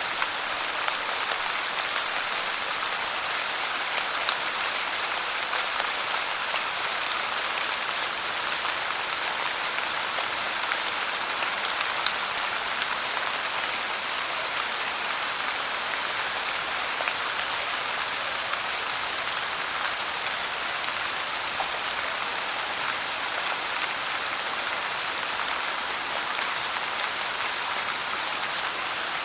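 Steady rain falling, an even hiss of drops with scattered small patters of drops hitting a surface.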